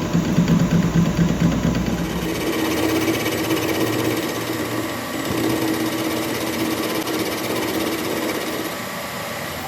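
A workshop machine running with a fast, steady rattling buzz; a lower rumble under it drops away about two seconds in.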